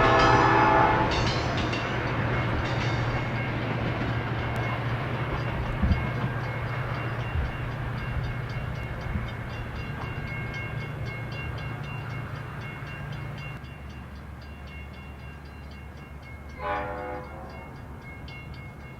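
Metra EMD F40-series diesel locomotive's chord horn ending a long blast about a second in, followed by two short toots. The locomotive's engine and the passing train run on with a steady low drone that gradually fades, and another short horn blast sounds near the end.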